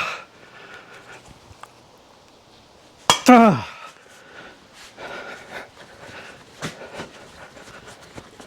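A drawn-out groan falling in pitch: the tail of one as the sound begins, and a second, louder one about three seconds in. Faint scattered clicks and clinks follow for the last few seconds.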